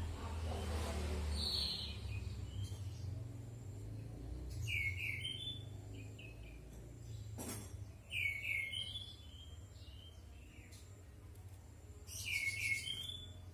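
Orange-headed thrush calling: three short phrases of quick down-slurred whistled notes, about four seconds apart, over a steady low hum. A brief hiss comes at the start and a sharp click about halfway through.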